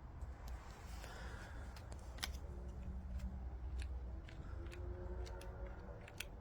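Scattered sharp clicks and light rattles of a plastic phone mount's spring arms, clamp and locking parts being handled and worked, over a low steady rumble.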